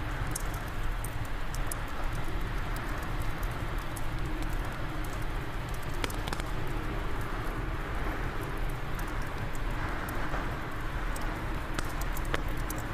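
Fireplace fire crackling, with irregular sharp pops and snaps, over a steady rush of wind.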